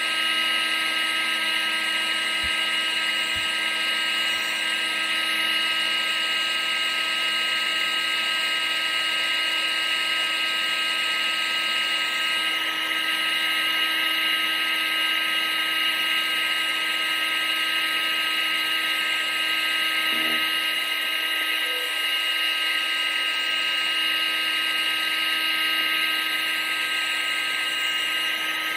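Vacuum cleaner running steadily: a constant high motor whine over an even rushing hiss of air.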